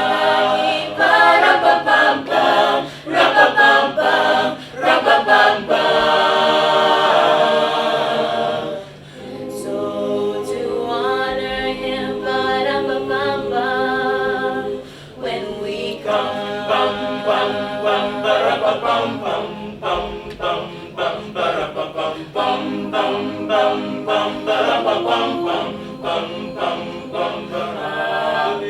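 A choir singing a cappella in several voices, pausing briefly about nine and fifteen seconds in.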